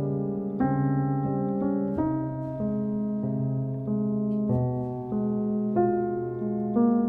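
Solo piano music: soft, sustained chords and melody notes, a new note or chord about every half second.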